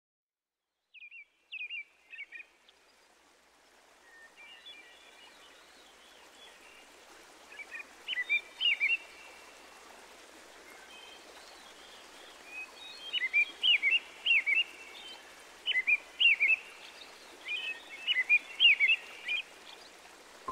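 Bird song: short phrases of quick, sweeping chirps repeated every few seconds over a soft steady background hiss that fades in over the first few seconds. The phrases are loudest in the second half.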